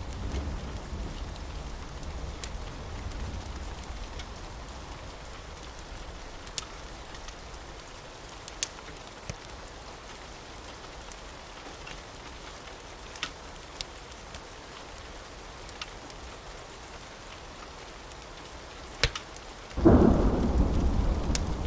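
Steady rain with scattered sharp pops, and a low thunder rumble fading over the first few seconds. Near the end a loud thunderclap breaks in suddenly and keeps rumbling.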